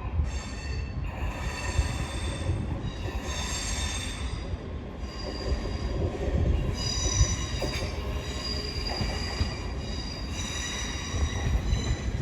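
A slow-moving train's wheels squealing on the rails: high squeals that come and go several times over a low rumble.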